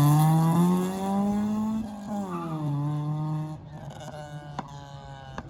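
A car engine held at high revs: its pitch climbs for about two seconds, drops, then holds steady lower before fading away. There are a couple of faint clicks near the end.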